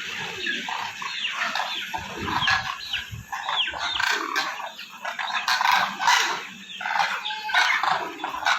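A flock of demoiselle cranes (koonj) calling: many short calls overlapping without a break, some sliding down in pitch.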